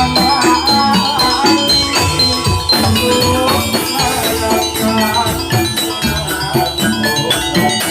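Javanese gamelan music for a jathilan horse dance: struck metallophone notes over steady, evenly repeating drum beats.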